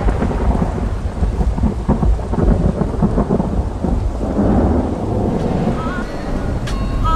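Thunder rumbling over steady rain, swelling again about four seconds in. Short pitched chirping tones come in near the end.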